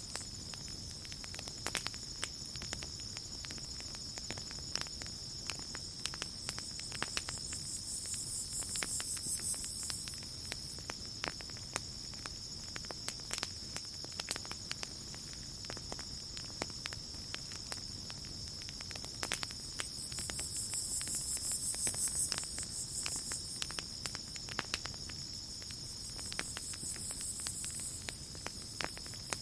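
Campfire crackling with scattered sharp pops over a steady high cricket trill. A higher insect trill swells up and fades three times.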